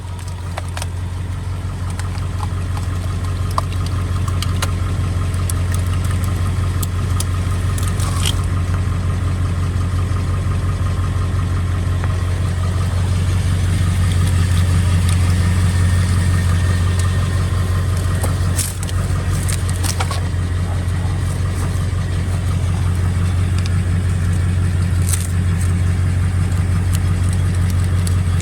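Truck engine running steadily in gear, spinning a Stickler screw-cone log splitter on its wheel hub, with a low hum that slowly grows louder. A few sharp cracks of a log splitting on the cone, the clearest about two-thirds of the way through.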